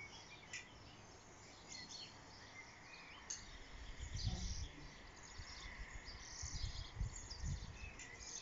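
Birds chirping faintly and sporadically over a soft outdoor hiss, with irregular low rumbles on the microphone from about four seconds in.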